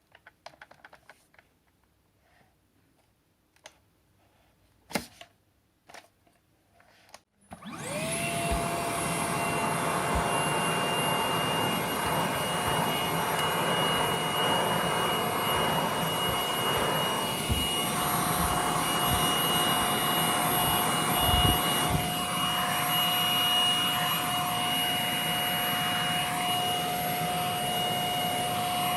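A few faint clicks of handling, then about seven seconds in a Hitachi PV-BFH900 cordless stick vacuum's motor spins up quickly and runs steadily with a high whine.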